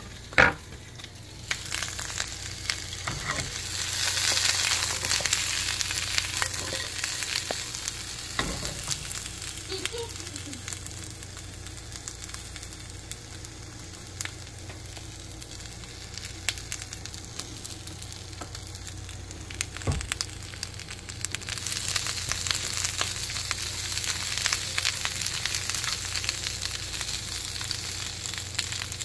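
Sliced onion sizzling in a HexClad wok: a steady frying hiss that swells twice, a few seconds in and again about two-thirds of the way through, with scattered small clicks of stirring. A single sharp knock sounds about half a second in.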